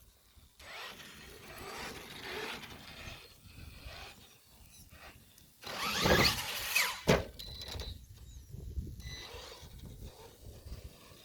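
Losi LMT radio-controlled monster truck driving, its sound rising and falling, with a loud burst of motor whine about six seconds in.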